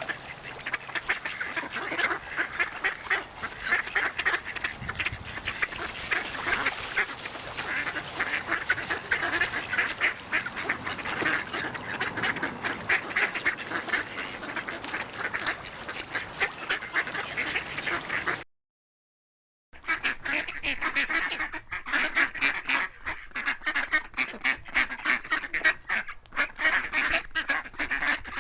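A crowd of ducks quacking over one another without pause. After about eighteen seconds the sound cuts out for a little over a second, then a second recording of ducks quacking comes in, brighter and clearer.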